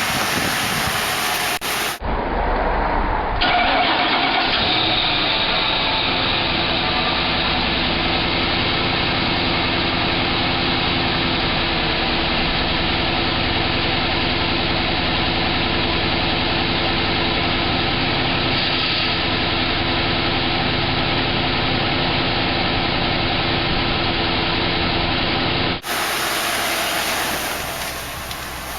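2003 Mercury Grand Marquis's 4.6-litre V8 cold start: the starter cranks for about a second and a half, the engine catches and then settles into a steady idle.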